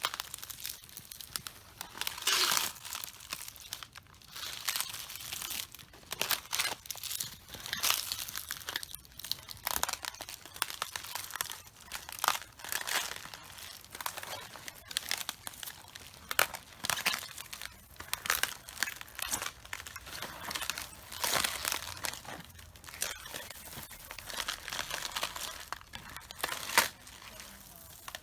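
Cabbages crushed underfoot: the leaves crunch, crackle and tear in irregular bursts about once a second, with each step.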